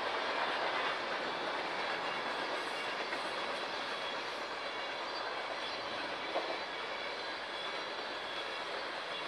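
Freight cars of a long mixed freight train (tank cars, boxcars, covered hoppers) rolling past: a steady rush of steel wheels on rail, with a faint thin high whine from the wheels and a single sharp clack about six seconds in.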